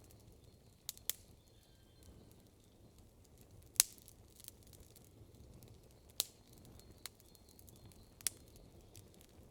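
Campfire crackling: burning wood gives sharp, irregular pops over a faint steady low background. The loudest pop comes nearly four seconds in and another strong one just after six seconds.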